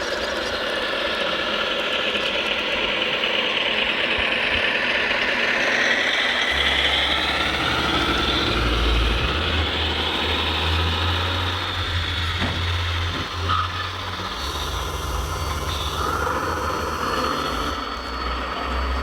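Radio-controlled scale construction models at work: a steady whine that slowly rises and falls in pitch, typical of the electric motors and hydraulic pumps of RC machines. A low engine hum comes in about six seconds in.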